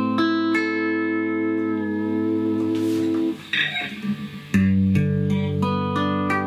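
Electric guitar played through a repaired Fender tube guitar amp: an A minor chord rings with single notes picked over it. After a short break about three and a half seconds in, a new chord is struck about four and a half seconds in and more notes are picked.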